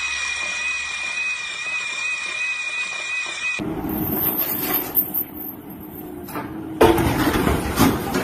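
A power tool, such as an electric drill, running with a steady high whine that cuts off abruptly after about three and a half seconds. Then comes a rougher, noisier stretch of rumbling with a low hum and a few knocks, the loudest about seven seconds in.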